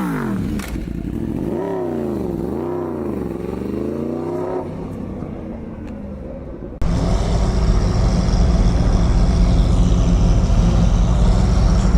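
Vehicle engine revved twice, its pitch rising and falling with each blip, then dying away. About seven seconds in the sound cuts abruptly to a louder, steady, low engine rumble at idle.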